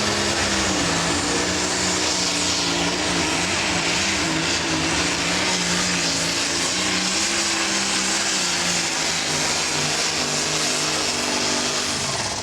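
A Pro Stock pulling tractor's turbocharged diesel engine running hard at full power under load during a pull, a loud steady engine note whose pitch wavers slightly as the tractor fights the sled.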